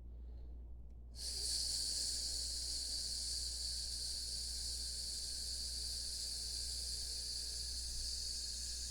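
A person exhaling one long, steady 'sss' hiss through the teeth, the lung sound of the six healing sounds used to release grief and sadness. It starts about a second in and is held without a break.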